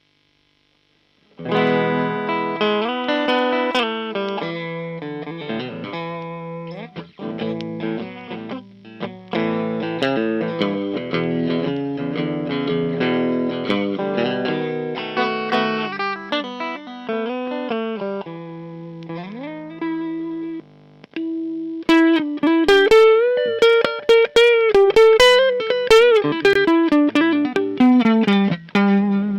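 1960s Kawai-built Arirang electric guitar played through an amplifier: strummed chords and single-note runs, and in the last third a lead line with bent, wavering notes.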